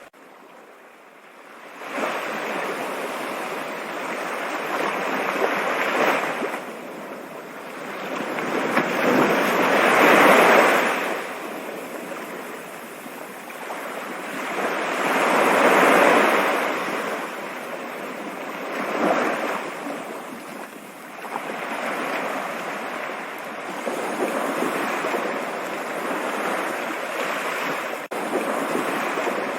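Rushing water: a continuous wash that swells louder and ebbs back several times, loudest about ten and sixteen seconds in. It is faint for the first two seconds before the full sound comes in.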